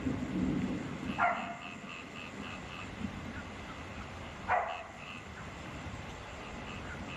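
Steady rain hiss with frogs calling in a row of short, evenly repeated pulses, about three a second. Two louder calls slide down in pitch, about a second in and again midway. A low rumble fades out in the first second.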